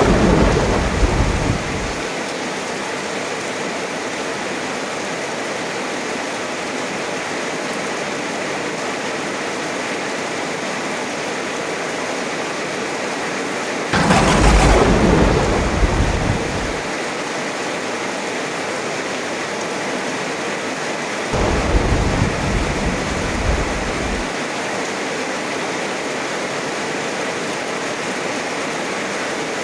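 Heavy rain falling steadily, with thunder: a clap dying away in the first two seconds, a sharp crack about fourteen seconds in that rumbles for a few seconds, and a duller, lower peal about twenty-two seconds in.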